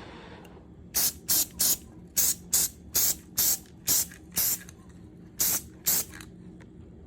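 Aerosol spray paint can spraying in about eleven short hissing bursts, one after another, with a brief pause about two thirds of the way through.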